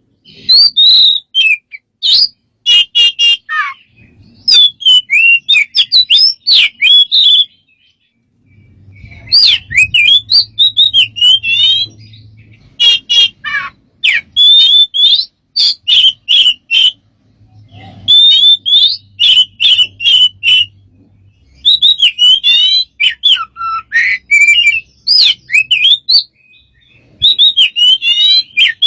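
A bird calling loudly in a varied stream of chirps, whistles and swooping notes, delivered in quick phrases a few seconds long with short pauses between them.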